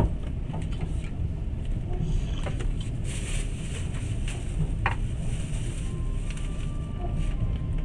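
Moving passenger train heard from inside the carriage: a steady low rumble of wheels on the track, with occasional short clicks and knocks.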